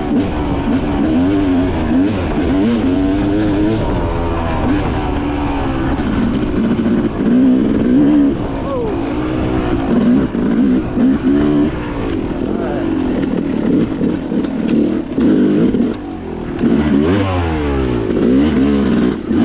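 Dirt bike engine revving up and down constantly on a rocky off-road trail, with a few sharp knocks in the later part.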